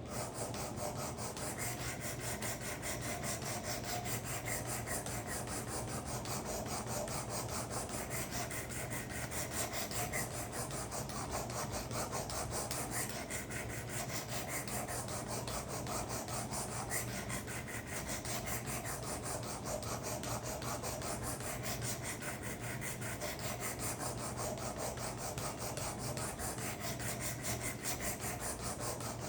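Steel karambit blade stroked rapidly back and forth on the coarse abrasive plate of a Work Sharp guided sharpener, a steady rasping scrape that swells every few seconds as the passes sweep along the curved edge: the coarse grinding that sets the first edge profile.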